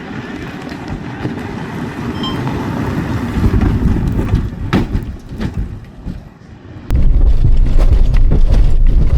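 Rally cars' engines running hard on a muddy track, growing louder over the first few seconds, then a sudden, much louder low rumble about seven seconds in.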